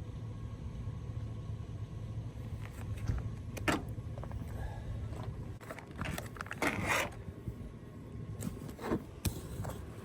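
Plastic freeze-dried meal pouch crinkling and scraping in a few short bursts as hot water is poured in and the contents are mixed, over a steady low hum.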